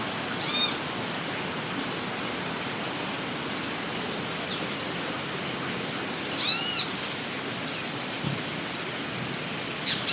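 Rainforest ambience: a steady hiss with a thin, steady high whine, and birds calling in short runs of chirps, the loudest run about six and a half seconds in.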